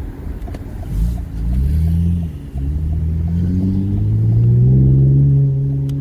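Car engine accelerating hard, its pitch climbing, with a short drop about two seconds in as it shifts gear, then climbing again to a loud hold near the end.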